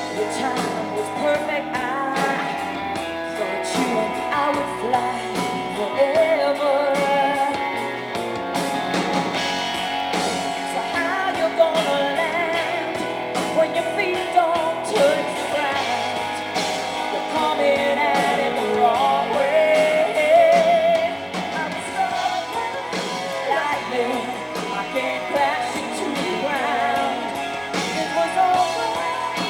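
Live rock band playing: amplified electric guitars over a steady drum beat, with a singing voice at times.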